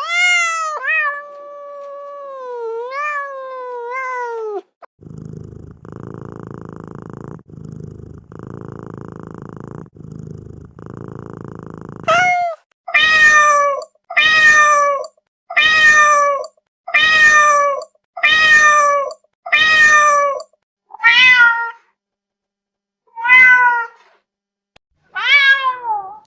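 Domestic cat meowing in long, wavering calls, then purring in four stretches, then giving a run of about ten short meows, each falling in pitch.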